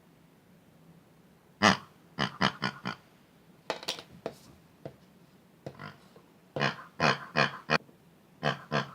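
Pig-like oinking grunts in quick clusters of short calls with pauses between, the loudest a single grunt about two seconds in.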